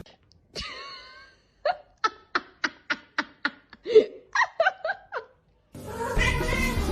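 Laughter: a brief wavering squeal, then a string of short, rhythmic 'ha' pulses, about three a second. Music starts near the end.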